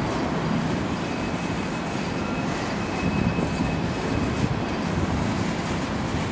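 Empty coal hopper cars rolling past on the rails with a steady rumble of wheels and couplings. A faint high wheel squeal joins in from about a second and a half in until about three and a half seconds.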